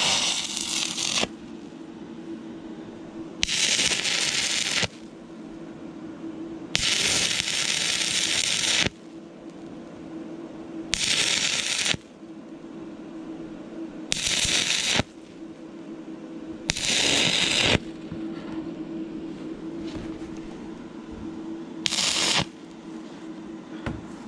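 Stick-welding arc from a 6011 rod on an inverter arc welder, run on thin, rusty, painted metal: the arc crackles in about seven short bursts of one to two seconds, struck and broken again and again, over a steady low hum.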